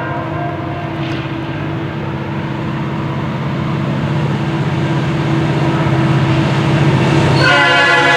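Approaching freight train's diesel locomotive: a steady low engine drone with a fast throb that slowly grows louder. The horn chord trails off just after the start and sounds again near the end, blowing for the grade crossing.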